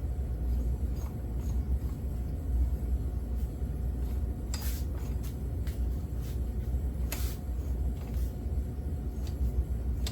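A few sharp clicks from a Yamaha YZ80 engine's gearbox being shifted by hand through its gears toward neutral, over a steady low rumble.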